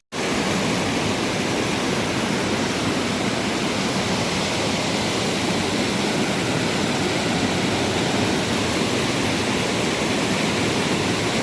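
Waterfall pouring heavily: a steady, dense rush of falling water that starts abruptly and holds at an even level throughout.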